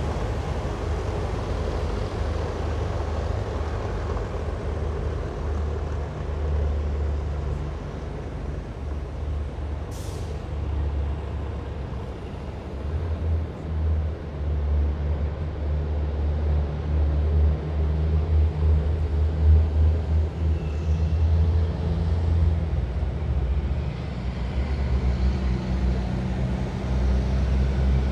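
Heavy military vehicles' diesel engines rumbling steadily as a column drives past, the drone swelling and easing as each vehicle goes by. A short sharp hiss cuts in once, about ten seconds in.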